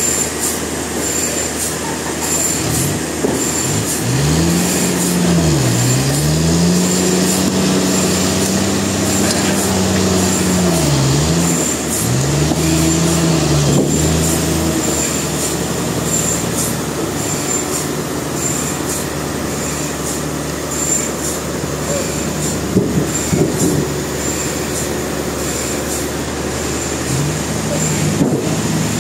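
Sawmill running and cutting a log, with a steady high whine over the engine. The engine's pitch sags and recovers several times in the first half as it takes the load of the cut.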